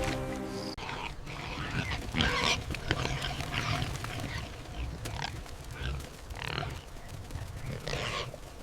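A series of short, harsh animal calls at irregular intervals, about eight in all. Background music with a held chord stops under a second in.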